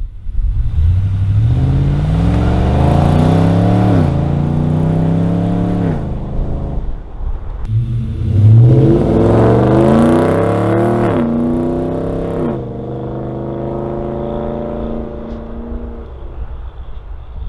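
Nissan Patrol Y62's 5.6-litre petrol V8 through a stainless steel extractor exhaust, accelerating hard twice: the note climbs, drops sharply at a gear change and climbs again. It then settles to a steady cruise that fades near the end.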